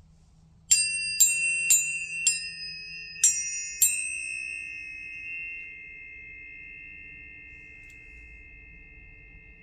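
Tuning forks struck six times in quick succession, each strike a bright metallic ping, then ringing on together in a steady high tone that slowly fades.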